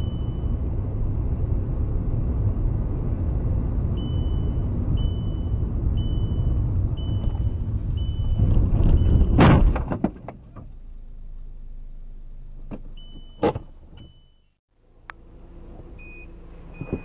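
Vehicle road rumble with a short high beep repeating about once a second. About nine seconds in comes a loud crash with clattering, then quieter rumble and another sharp knock a few seconds later.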